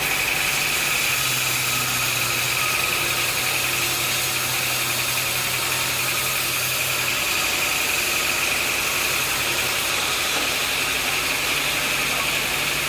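Sawmill machinery running steadily: a motor hum under a constant high whine, the low hum stronger for the first half.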